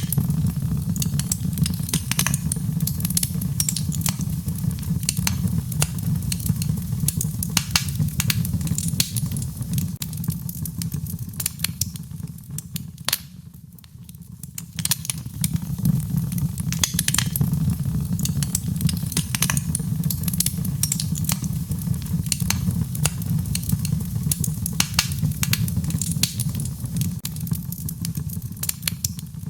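Wood fire in a fireplace crackling: frequent irregular pops and snaps over a steady low rumble of the flames, thinning out for a couple of seconds about halfway through.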